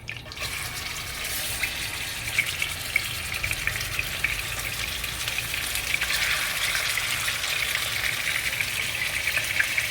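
Chicken pieces deep frying in hot vegetable oil in a pan: a steady sizzle with many small crackling pops, starting just as the chicken goes in and growing a little louder.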